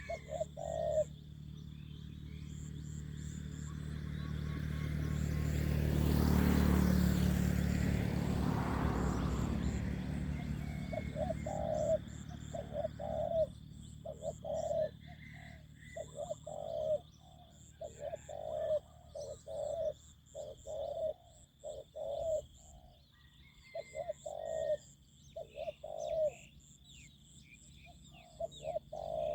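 Spotted dove cooing, repeated coos in runs, at a decoy-calling spot. A vehicle passes partway through, growing louder to a peak about six to seven seconds in and then fading, while the cooing pauses.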